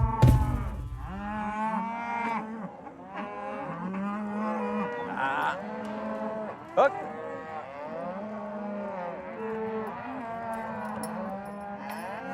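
A herd of cattle mooing, many drawn-out calls overlapping, as the herd is driven together. A low rumble stops abruptly about a second and a half in, and a single sharp sound stands out near the middle.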